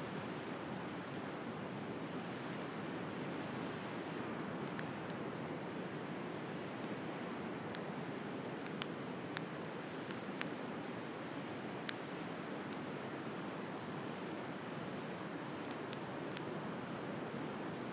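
Sea surf washing steadily, with a wood fire crackling over it in irregular sharp pops.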